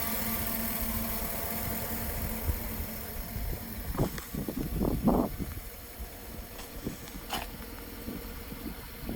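A 2013 Chevrolet Avalanche's 5.3-litre Vortec V8 running at idle as a low, steady rumble, growing quieter about halfway through, with a couple of soft thumps around the middle.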